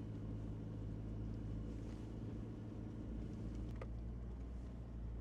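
A vehicle engine running steadily with a low, even hum, and a brief click a little under four seconds in.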